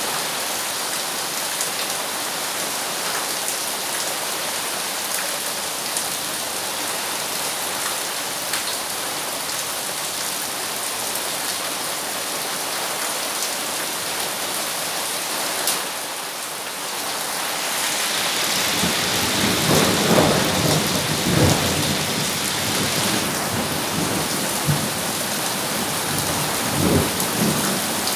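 Steady rain falling on bare ground and puddles, an even hiss. A bit over halfway through, a low rumble of thunder swells and rolls for several seconds, with a shorter rumble near the end.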